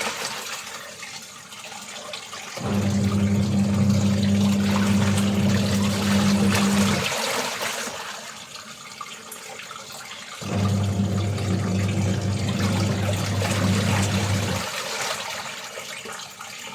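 Washing machine running its wash cycle: the motor hums in spells of about four seconds, pausing about three seconds between them, over a steady churning of water.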